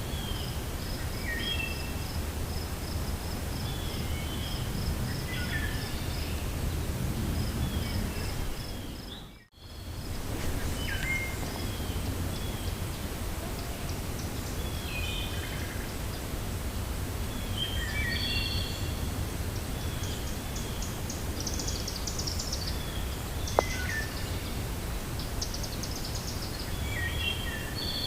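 Wind rumbling steadily with birds chirping, many short calls from several birds, and a fast high-pitched ticking trill through the first several seconds. The sound fades out and back in about a third of the way through, and there is one sharp click later on.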